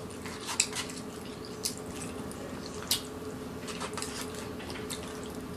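Eating sounds: a few scattered small clicks and smacks, over a steady low hum.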